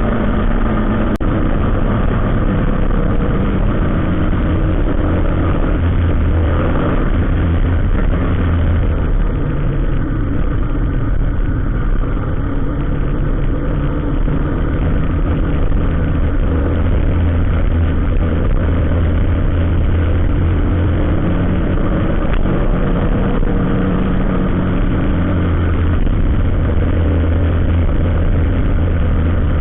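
A vehicle engine running steadily with a deep low hum, mixed with road noise, with a single sharp click about a second in.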